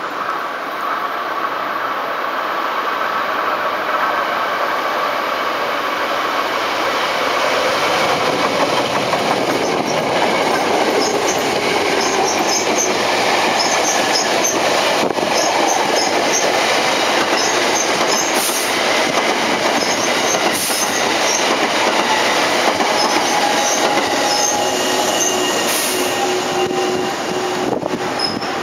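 Electric commuter train running on the rails. Wheel and rail noise builds over the first few seconds and holds steady, with faint steady whining tones later on.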